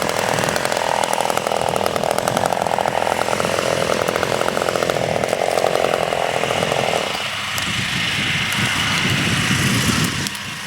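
Gas chainsaw running hard, cutting dead oak wood. About seven seconds in it eases off to a lower, quieter run, and it drops again near the end.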